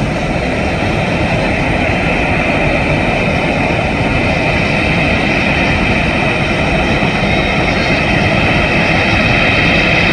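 Boeing 737 jet engines running, a loud steady rush with a whine in it that grows a little stronger toward the end.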